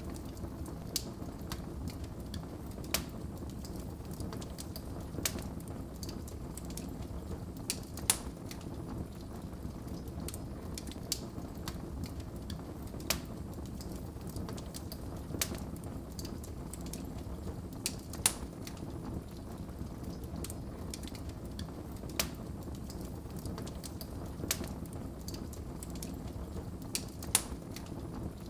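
Wood fire crackling in a fireplace: a steady low rush of burning with sharp pops and snaps every second or two.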